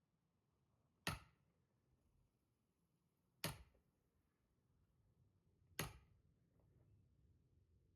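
Axe strikes splitting firewood: three sharp cracks, evenly spaced a little over two seconds apart.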